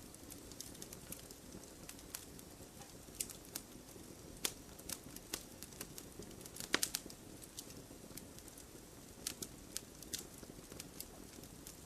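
Wood burning in a fireplace, crackling with irregular sharp pops over a steady low rush; the loudest burst of pops comes just before the middle.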